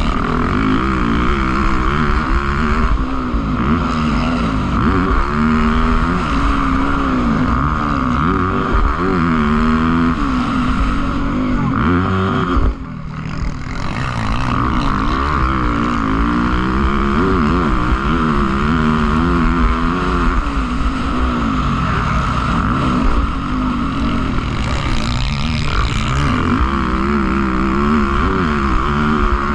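Motocross bikes racing, their engines revving up and falling back again and again as they accelerate, with a brief dip in the sound about halfway through.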